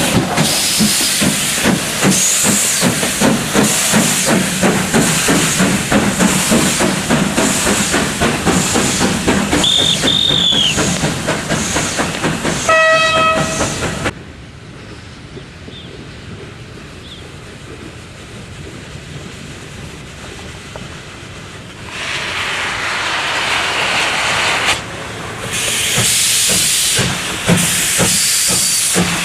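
CFR 231.065 Pacific-type steam locomotive working hard with rapid exhaust chuffs, and a short steam whistle blast about 13 seconds in. After a sudden drop to a quieter stretch, loud steam hiss comes in near the end.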